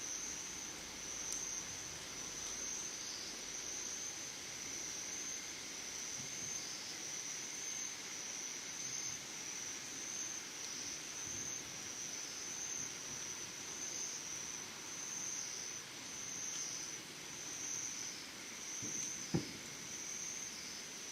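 Summer insects singing: a steady high-pitched trill that swells about every two seconds, with a fainter, lower trill beneath it. A single short knock comes near the end.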